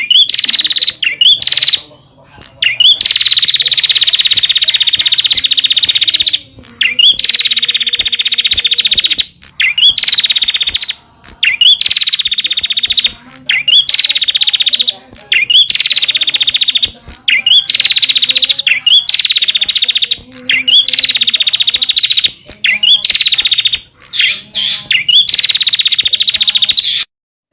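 Prenjak (prinia) calling in a repeated series: each phrase opens with a short rising note and breaks into a loud, fast, rattling trill lasting one to three seconds, about a dozen times with short pauses between.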